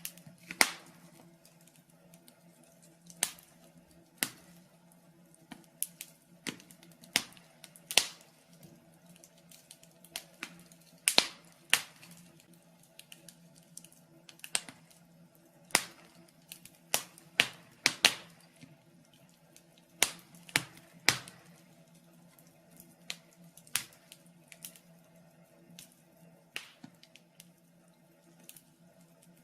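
Wood fire burning in a fireplace: irregular sharp crackles and pops at uneven intervals, several dozen of them, over a faint steady low hum.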